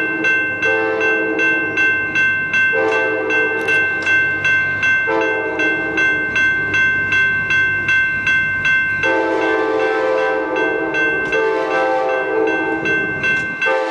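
Model Amtrak Dash 8 locomotives' onboard sound playing a locomotive bell ringing steadily and evenly, with long blasts of the multi-chime air horn over it. The horn stops for about four seconds in the middle, then sounds again.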